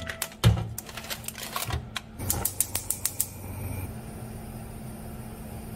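A sheet pan set down with a thump, then a gas stove burner's igniter clicking rapidly until it stops about three seconds in.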